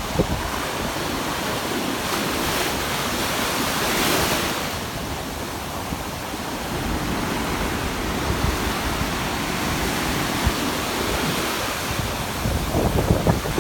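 Rough ocean surf breaking and washing up on a sandy beach, with a louder wave crashing about four seconds in.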